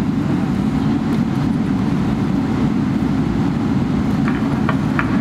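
Steady low cabin drone inside a Boeing 777-300ER airliner waiting to take off, from its engines and air conditioning, with a few faint ticks near the end.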